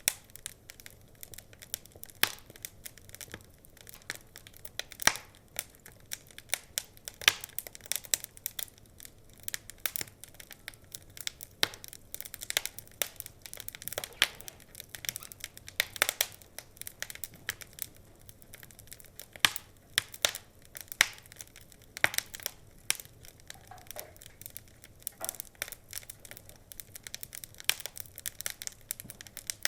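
Wood fire crackling, with irregular sharp pops and snaps several times a second.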